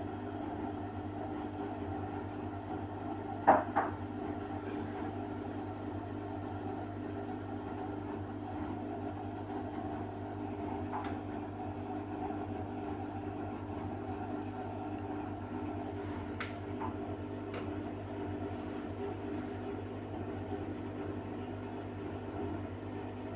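Balay washing machine running with a steady electrical hum, one sharp click or knock about three and a half seconds in, and a few faint clicks later.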